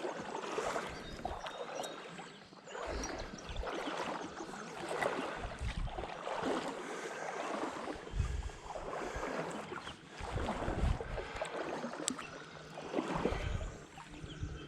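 Water sloshing and splashing in a shallow creek in uneven surges, like steps wading through the current, over the running stream.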